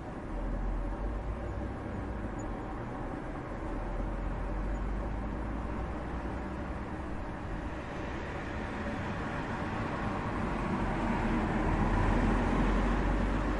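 City traffic noise with a steady low rumble; a vehicle draws nearer and passes, growing louder from about two-thirds of the way in to a peak near the end.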